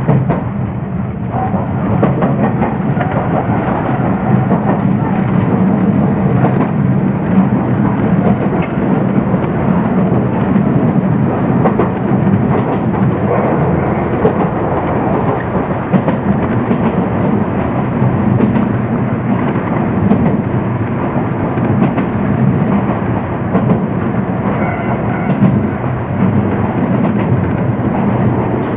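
Iyo Railway Gunchū Line electric train running at speed, heard from inside the front of the car: a steady rumble of motors and wheels on rails, with scattered clicks from the track.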